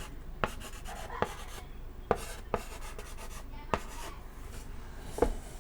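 Chalk writing on a chalkboard: about six sharp taps as the chalk strikes the board, with soft scratchy strokes between them.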